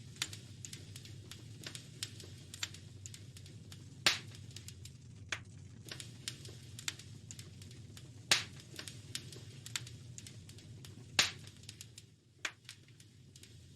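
Wood fire crackling in a fireplace: an irregular stream of small snaps and pops over a low steady rumble, with three louder pops about four, eight and eleven seconds in.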